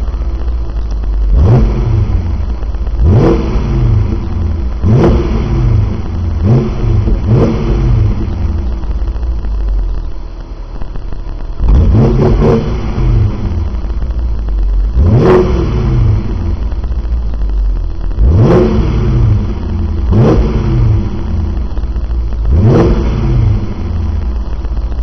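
BMW 745 (E65) V8 engine being blipped through an exhaust with two 90 mm tailpipes: about a dozen quick throttle blips, each rising sharply and dropping back to idle, with a few seconds at idle about halfway through.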